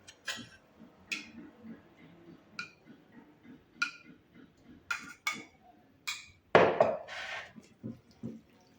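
Tableware clinking as a meal is eaten from a thali: about ten light, sharp clinks at uneven intervals, with a louder, longer clatter about six and a half seconds in.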